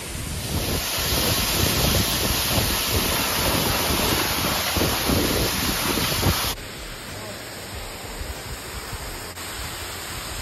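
Waterfall, a steady rush of falling water, loud and close with rumbling buffets on the microphone. About two-thirds through it cuts abruptly to a quieter, steadier rush of water.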